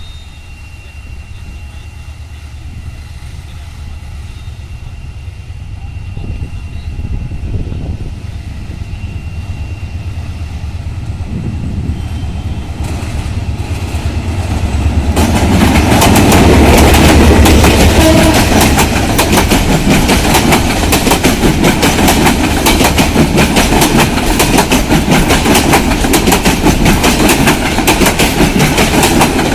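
Intercity passenger train approaching and passing, hauled by a diesel locomotive. A low engine rumble builds over the first half, then from about halfway the rapid, loud clatter of wheels over rail joints as the coaches run by.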